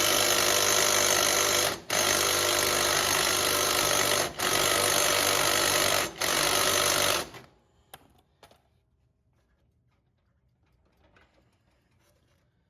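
Wire-feed (MIG) welder running in four continuous runs with brief pauses between them, stopping about seven seconds in.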